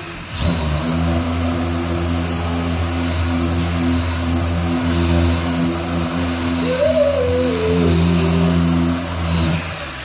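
A workshop machine's motor runs steadily for about nine seconds with an even hum, starting about half a second in and cutting off near the end.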